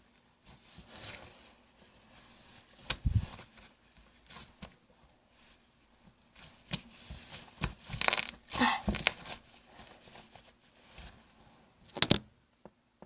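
Hands squishing, stretching and poking a homemade shampoo-and-salt slime with glitter, making irregular wet crackling and popping sounds. The loudest run of crackles comes about eight seconds in, with a sharp pop near the end.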